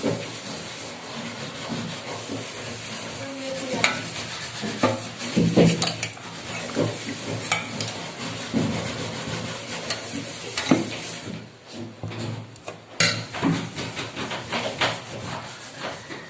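Curry cooking in a pan with a spoon stirring and scraping through it, a steady sizzle underneath and scattered clinks of the spoon against the pot.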